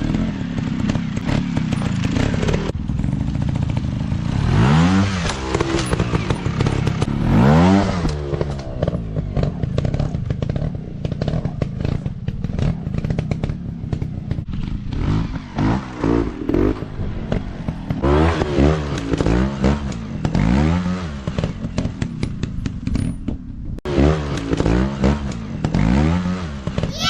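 Dirt bike engine revving up and dropping back again and again, as in slow technical riding, with clatter and knocks mixed in. The revs rise and fall twice in the first half and then several times in quick succession in the second half.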